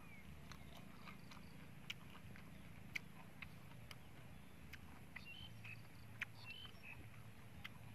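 Faint chewing of a mouthful of raw leaves, with scattered sharp mouth clicks and smacks over a low steady hum.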